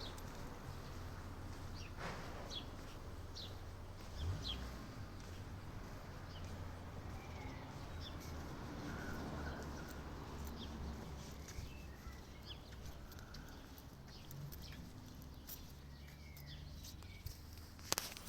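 Scattered short bird chirps over a steady low rumble, with a sharp click near the end.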